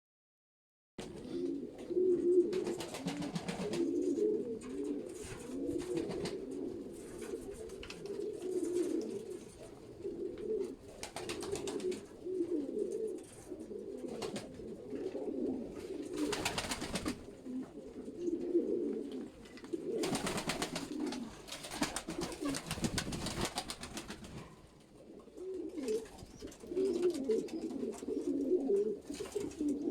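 Several domestic pigeons cooing together in a dense, continuous burble, starting about a second in, with a few short rustling noises among them.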